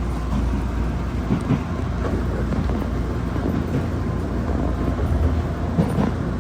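Hakone Tozan Railway electric train running on the track: a steady low rumble of wheels on rails, with a few faint clicks.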